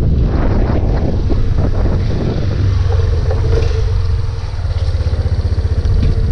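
Yamaha Fazer 250's single-cylinder engine running during a test ride, with wind noise on the microphone. About four seconds in it settles into a steady, fast-pulsing idle.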